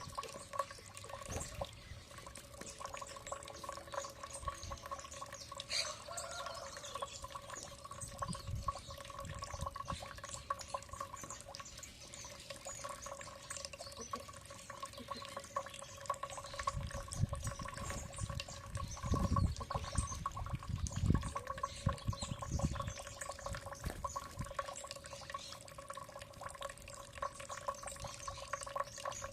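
Water trickling and dripping over a steady hum, with many small scattered ticks and a run of low thumps about two-thirds of the way in.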